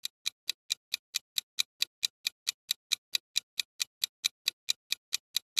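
Countdown-timer ticking sound effect: a sharp, clock-like tick repeating evenly about four to five times a second.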